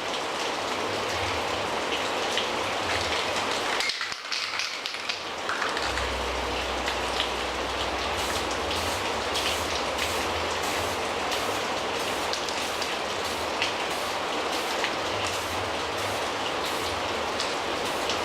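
Aerosol spray can of clear lacquer hissing as it sprays in a steady stream, easing off briefly about four seconds in. A low rumble runs underneath from about six seconds in.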